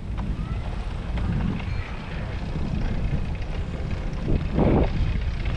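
Wind buffeting a GoPro's microphone while riding a bicycle: an uneven low rumble, with a short louder gust about four and a half seconds in.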